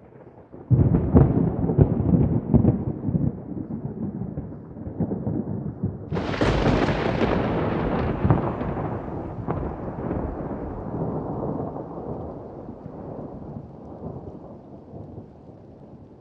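Thunder: a crackling rumble breaks in under a second in, then a sharper, brighter clap about six seconds in rolls on and slowly fades away.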